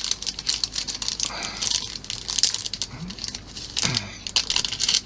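Small plastic model-kit parts being handled and set in place on a work surface: a run of light clicks, taps and rustles.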